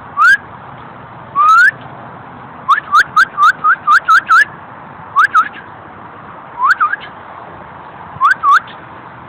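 A person whistling close to the microphone to call a dog: short upward-sliding whistles, one longer one, then a quick run of about eight, then pairs near the end.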